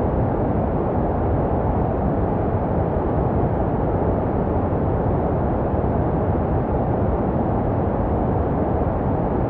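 Steady white noise for baby sleep, a deep, muffled hiss with little treble that holds an even level without any change.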